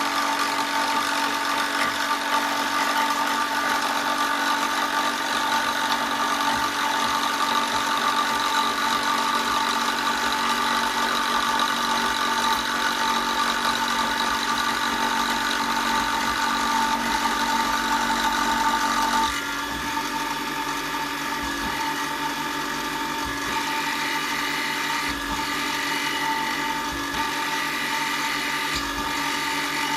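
Electric power tool running steadily with a whining motor tone. About 19 seconds in, the sound changes abruptly and drops a little in level, then runs on steadily.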